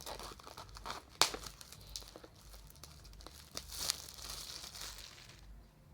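A new phone box's packaging being worked open by hand: crinkling and tearing, with a few sharp clicks, the loudest about a second in, and a longer stretch of tearing and rustling near the end.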